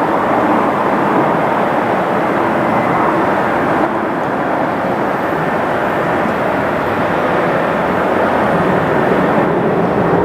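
Jet airliner engines heard as a loud, steady rush of noise with no sudden changes.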